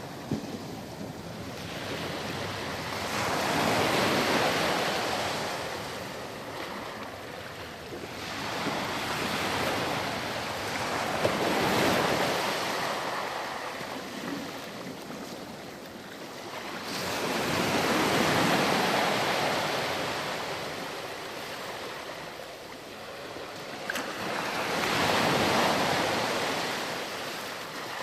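Ocean surf breaking and washing up on a sandy beach, each wave swelling and then draining back, four waves about seven seconds apart.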